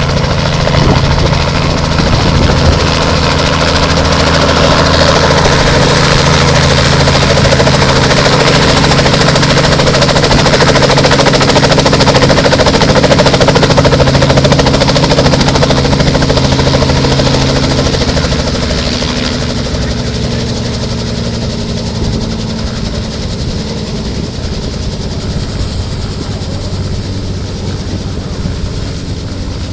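Helicopter running loud and steady, its engine and rotor noise thick with steady low tones. After about eighteen seconds the tones fade and the sound quietens somewhat.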